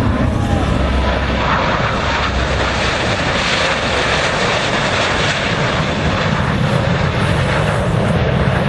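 Fixed-wing aircraft engine noise, a loud steady rush that is brighter in the first half and deeper toward the end, as an aircraft passes.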